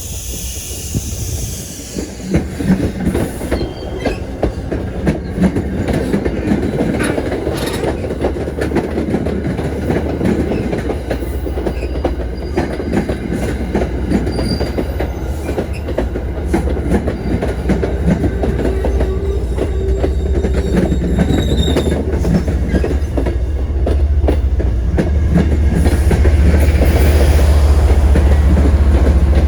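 Train rolling past: its wheels click rhythmically over the rail joints, with brief high wheel squeals now and then, and a low rumble that grows louder toward the end.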